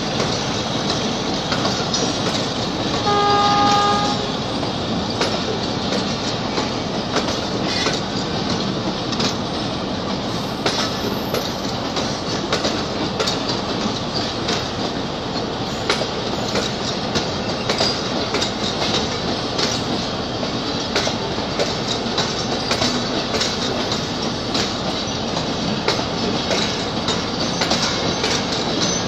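Passenger coaches of a departing express train rolling past, their wheels clacking over rail joints amid a steady rumble. About three seconds in, a train horn sounds once for about a second.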